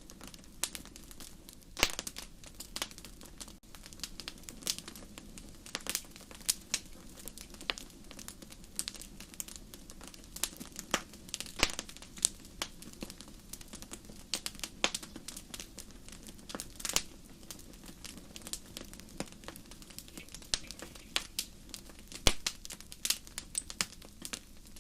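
Wood campfire crackling: irregular sharp pops and snaps, several a second at times, over a steady low rush of burning.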